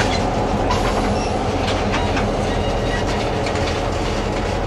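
Narrow-gauge cattle wagons rolling slowly past, their wheels and bogies clicking and clattering over the rail joints above a steady low rumble.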